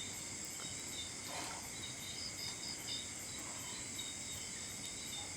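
Steady chorus of insects, cricket-like, with continuous high chirring and short repeated pulsing notes.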